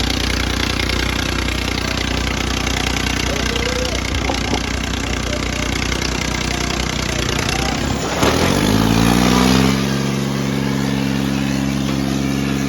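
Diesel tractor engine running steadily at low speed, then revving up about eight seconds in and holding at a higher steady speed.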